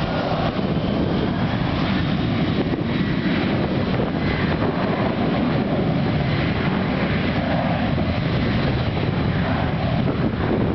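Boeing 737-800's CFM56 jet engines at takeoff power, a steady, unbroken rush of engine noise mixed with wind buffeting the microphone.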